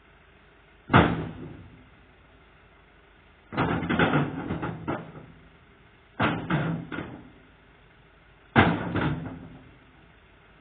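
Sharp knocks and bangs in four bursts: a single loud bang about a second in, then three clusters of several quick knocks, each dying away within about a second.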